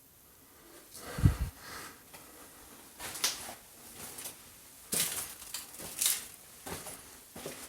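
A series of irregular knocks and crunches in a small room, spaced about a second apart; the loudest is a low thump a little over a second in.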